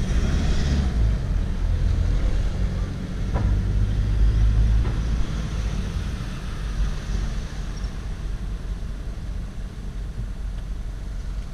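Low, steady rumble of a car moving slowly, a little louder around four to five seconds in.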